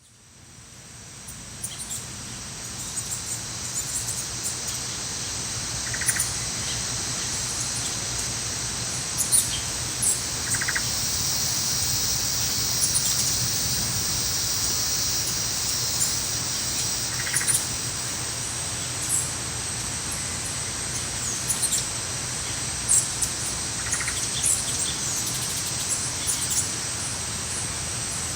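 Tropical rainforest ambience: a steady high insect drone with scattered bird chirps, and a short call that repeats every few seconds. It fades in over the first couple of seconds.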